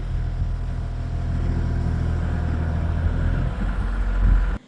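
Tractor engine running steadily, mixed with a low wind rumble on the microphone that swells loudest just before the sound cuts off suddenly.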